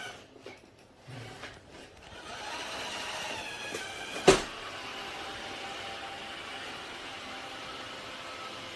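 Robot vacuum running with a steady motor hum that dips and picks up again in the first couple of seconds, with one sharp knock a little past the middle.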